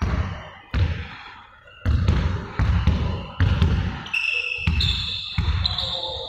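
Basketballs bouncing on a hard court floor: a run of heavy thuds about once a second. High squeaks come in over the last two seconds.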